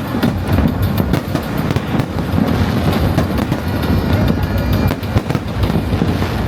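Fireworks display going off continuously: many rapid overlapping bangs and crackles over a steady deep booming.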